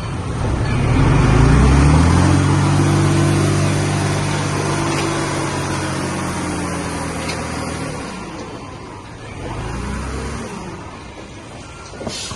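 Heavy-equipment diesel engine revving up in pitch over the first two seconds, holding high revs until about eight seconds in, then easing off, with a brief second rev near ten seconds.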